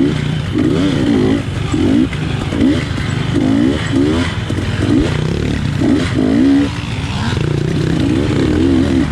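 GasGas 250 dirt bike engine revved up and down again and again in short bursts of throttle, about once or twice a second, as it is ridden hard through tight off-road trail.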